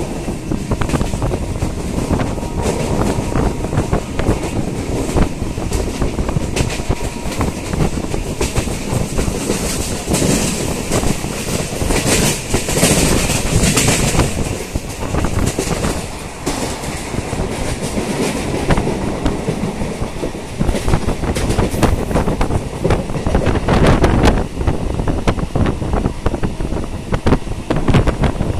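Suburban electric local train running at speed, heard from on board: a continuous rumble with wheels clattering over the rail joints, and a brighter hissing rush for a few seconds about halfway through.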